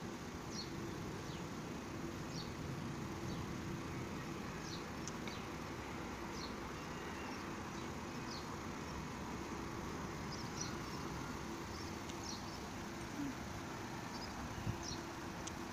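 Small birds chirping in short high notes, one or two a second, over a steady low hum from the Metrovalencia 4300-series electric train waiting at the platform.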